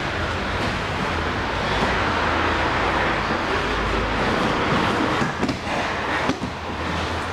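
Steady noise of passing vehicles, with a few short knocks about five to six seconds in.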